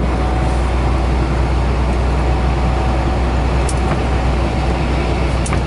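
Steady drone of a truck's engine and road noise heard from inside the cab while driving, with a strong constant low hum and a couple of faint clicks near the end.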